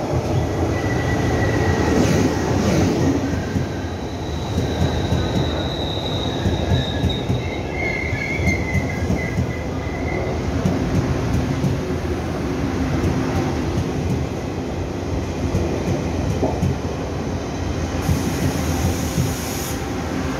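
Taiwan Railway passenger train rolling along the platform, with a steady rumble of wheels on rail. Short high-pitched wheel squeals come in the first half, and there is a brief high hiss near the end.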